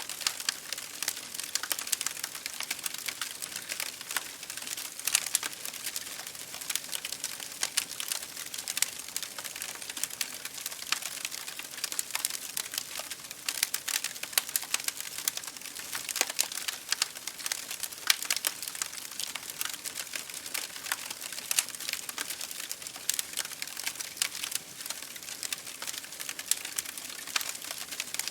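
Wood fire crackling in a fireplace, with a dense stream of irregular small pops and snaps, over a steady hiss of rain against a window.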